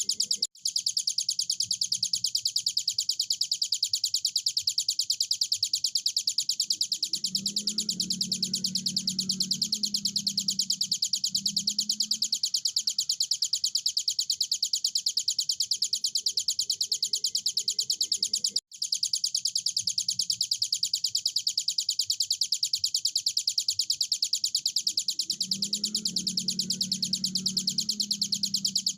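Hill prinia (ciblek gunung) singing a long, fast, unbroken trill of rapidly repeated high notes. The song drops out for an instant twice, and a low hum comes in twice underneath.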